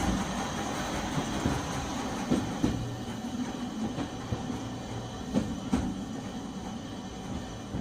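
Nagasaki Electric Tramway 370-series tram running on its rails, heard from inside the car: a steady rumble with a few sharp knocks from the wheels. It gets gradually quieter toward the end.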